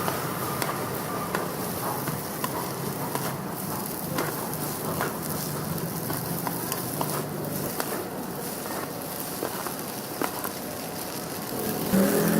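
Food stir-frying in a hot wok: a steady sizzle scattered with small crackles and pops.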